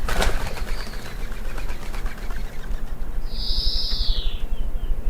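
A short flurry of wing flaps at the start, then about three seconds in a small garden bird gives one drawn-out, slightly falling wheezy call lasting just over a second, over a steady low rumble.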